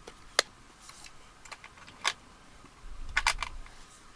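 Makeup cases and tools being handled: a few sharp plastic clicks and taps, with a quick cluster of clicks near the end.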